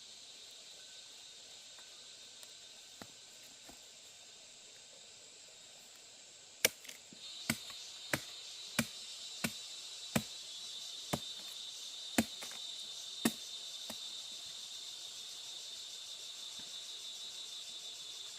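About nine sharp chopping blows from a hand tool, roughly one every 0.7 seconds, starting about seven seconds in and ending near thirteen seconds. Under them runs a steady high chorus of insects.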